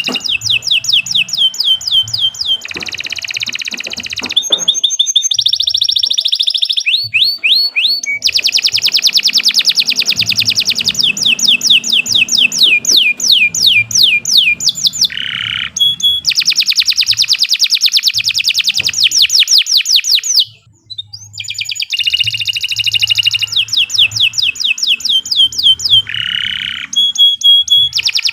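Domestic canary singing long, unbroken rolls of fast repeated falling notes, about five or six a second, switching from one trill to the next every few seconds. There is one short pause about three-quarters of the way through.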